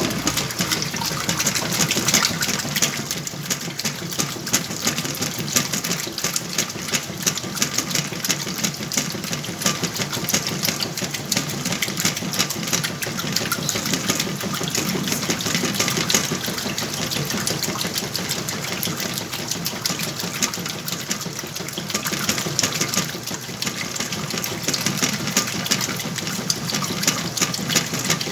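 Whirlpool washing machine running a wash: water churning and splashing in the drum over the steady run of its motor.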